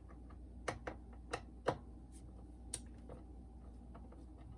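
Sharp clicks and taps of a screwdriver and small screws as the cassette deck screws are taken out of a Pioneer SK-550 boombox, about five distinct clicks in the first three seconds, then only faint ticks.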